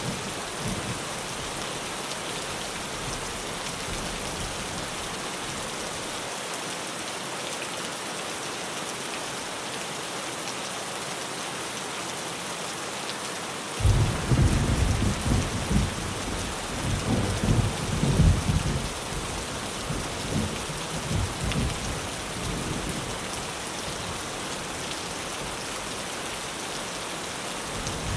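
Steady rain drumming on a tin roof. About halfway through, a low rumble of thunder comes in suddenly, swells several times over about eight seconds, then eases back under the rain.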